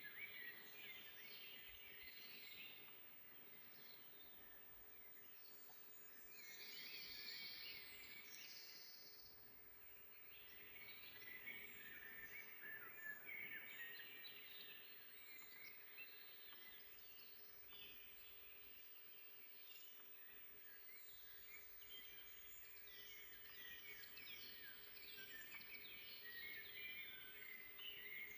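Several songbirds singing faintly, overlapping chirps and trills that come and go, busiest in the second half, over a soft outdoor hiss and a faint steady hum.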